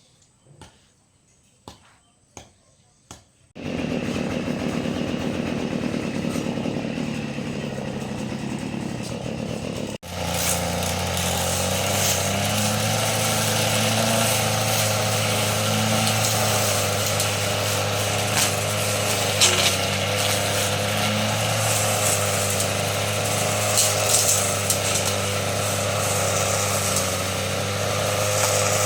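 A few sharp clicks, then about three and a half seconds in a Kubota diesel engine starts running steadily at a constant speed, with a brief break a little before halfway.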